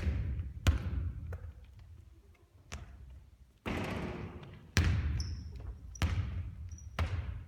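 A basketball bouncing on a court, about six sharp thuds at uneven intervals, each echoing as in a large hall, with two short high squeaks in between.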